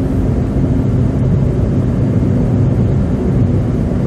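Steady road noise of a car driving through slush on a snowy highway, heard inside the cabin: a continuous low rumble of tyres and engine.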